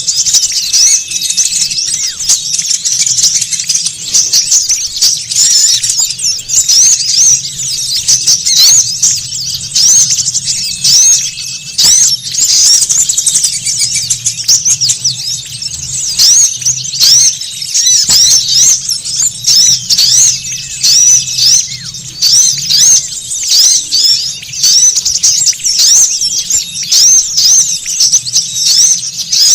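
A noisy flock of small songbirds: a continuous, dense chatter of rapid high chirps and twitters, made as a bird-lure (pikat) call to draw wild small birds in.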